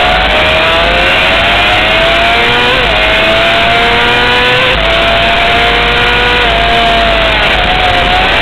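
Honda CBR600 inline-four engine at high revs under hard acceleration, its pitch climbing through the gears with sharp drops at upshifts about three and five seconds in. Near the end the revs ease off and waver.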